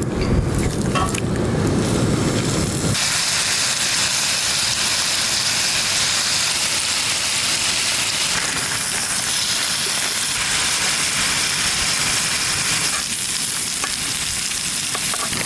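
Seasoned steak sizzling over a campfire: a steady, even hiss. A low rumble fills the first three seconds, then stops abruptly.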